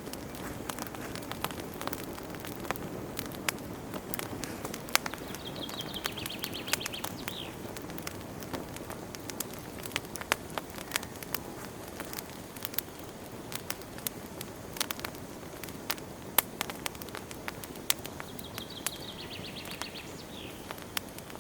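Wood fire crackling in a fireplace: frequent sharp pops and snaps over a steady low rumble of burning. A bird sings a short rapid trill twice, about 6 seconds in and again near the end.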